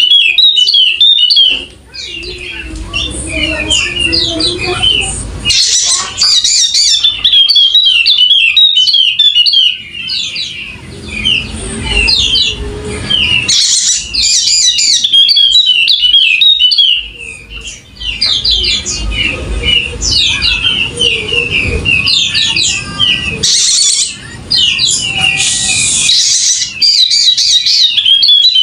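Yellow-spectacled white-eye singing a long, fast, high twittering song in loud, almost unbroken phrases. A low rumbling noise runs under it at times.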